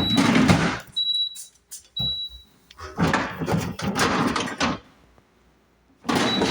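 Plastic sliding and knocking sounds from dehumidifier water buckets being handled and pushed into place, in three noisy stretches. Short high beeps come about once a second during the first couple of seconds.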